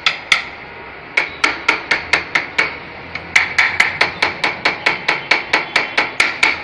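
A rapid series of sharp knocks with a brief metallic ring, struck by hand with a tool: two blows, then a run of about eight and a longer run of about fourteen, at roughly four blows a second.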